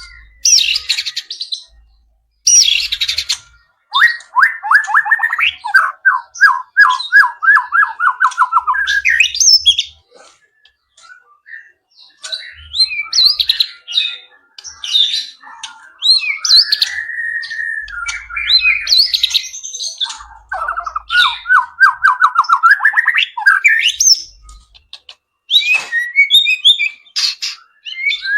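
White-rumped shama singing a varied song of whistled phrases and chirps, with stretches of quick repeated notes, broken by a short pause about a third of the way through.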